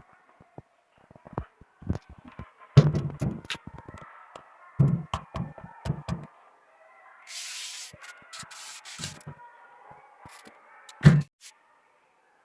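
Music from a car-audio speaker box: irregular heavy bass hits with sharp knocks and a few faint held tones, and a short hissing burst a little past the middle.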